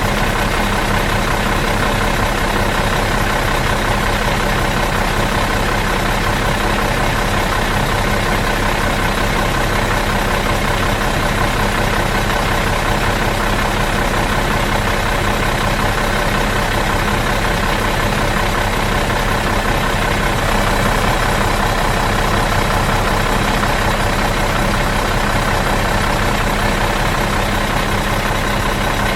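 Bus engine idling out of gear, steady and even, with an unchanging low hum.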